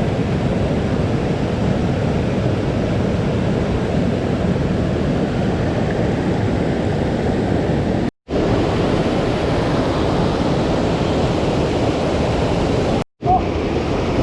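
Mountain stream water rushing steadily. Twice it drops out to silence for a split second.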